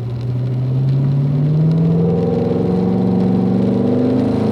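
Car engine accelerating under steadily increasing throttle out of a corner, its pitch rising smoothly and evenly.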